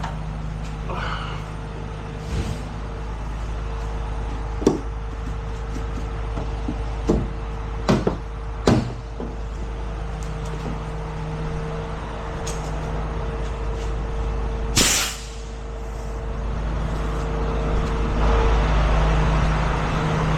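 Heavy tow truck's diesel engine idling with a steady hum, broken by several short clicks and knocks, then a loud, sharp air-brake hiss about fifteen seconds in. The engine grows louder near the end.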